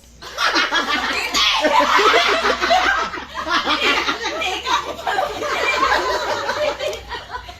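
A group of people laughing hard together, overlapping voices, starting just after the start and dying down near the end.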